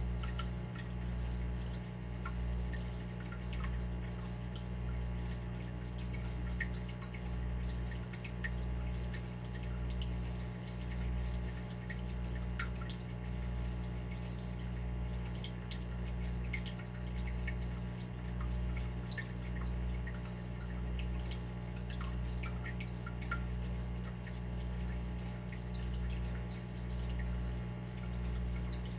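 Water dripping in irregular single drops, over a steady low hum that swells and fades about once a second.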